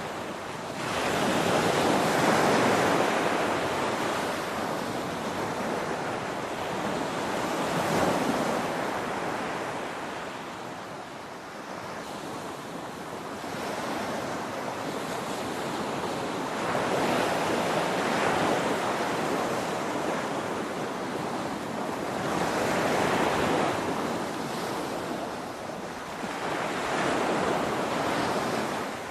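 Ocean surf, waves breaking and washing up in slow surges, a swell every five or so seconds with lulls between.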